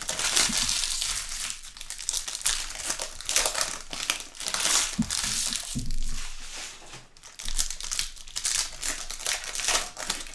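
Trading-card pack wrappers crinkling and rustling in uneven bursts as the packs and cards are handled.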